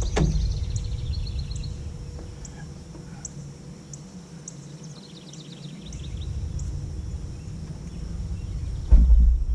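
Birds calling: a short high chirp repeated about every three-quarters of a second, with a couple of quick trills, over a low rumble of handling or wind noise on the microphone. A sharp thump near the end.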